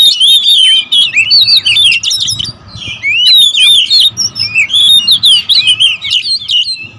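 Several oriental magpie-robins calling agitatedly over one another in a territorial squabble, fast runs of whistled chirps and sliding notes, with a short lull a little past two seconds in.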